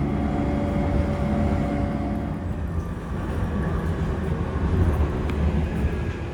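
JR East E235-series electric commuter train running, heard from inside the car: a low rumble with a steady electric motor hum in several tones that fades about halfway through.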